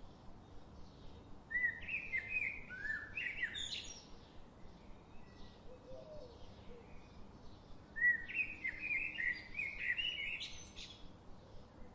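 A songbird singing two warbled phrases of quick, varied notes, each lasting about two and a half seconds, the second starting about six seconds after the first, over faint scattered chirping.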